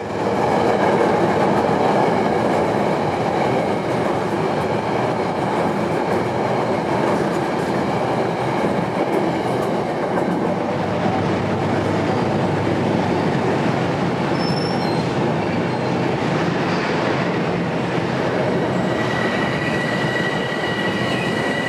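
Metro-North commuter train running through an elevated station: a steady, loud rumble of wheels on the rails and passing cars. A thin, high steady squeal of the wheels joins in near the end.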